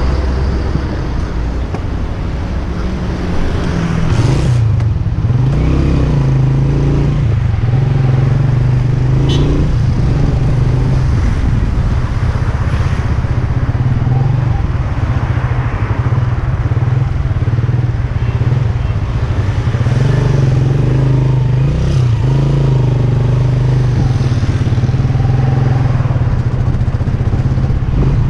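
Motor vehicle engine running steadily with road and traffic noise around it, heard from on the move. It gets louder about four seconds in.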